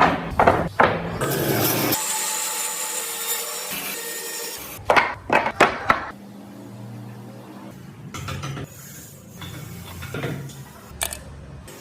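Hand-working a block of wood: a few sharp knocks, then a few seconds of steady scraping like sawing, then another quick run of knocks, with quieter tool noise and scattered taps near the end.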